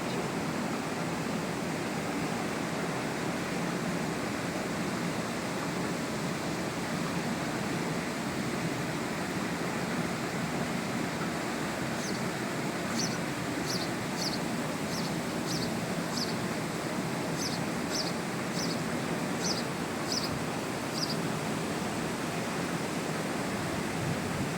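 Steady rush of a canal's small waterfall. From about halfway through, a bird calls a short high chirp about twice a second for some nine seconds.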